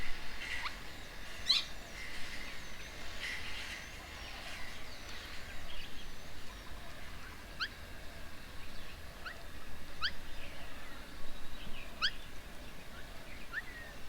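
Several birds calling: a busy mix of chirps in the first few seconds, then quick, upward-sweeping notes every second or two.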